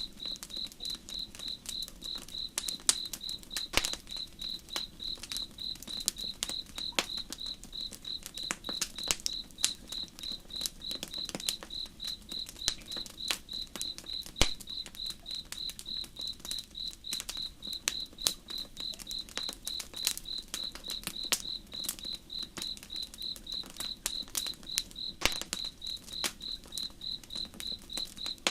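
Crickets chirping steadily, about three chirps a second, over a campfire crackling with irregular sharp pops; the loudest pops come about 4 s and 14 s in.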